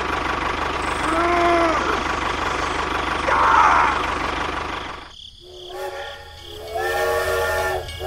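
An engine runs steadily, with two short rising-and-falling tones over it. About five seconds in it cuts out, and a steam locomotive whistle sounds two long blasts, each several steady notes at once.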